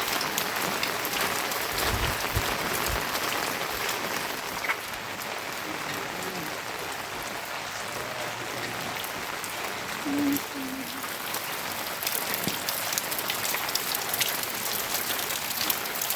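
Steady rain falling and pattering on surfaces, with many small drop ticks. It grows a little louder about three-quarters of the way through.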